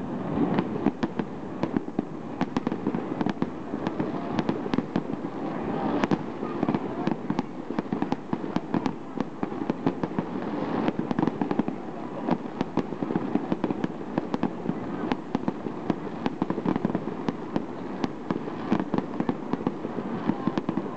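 Fireworks display: a dense, irregular run of sharp bangs and crackling reports, several a second throughout.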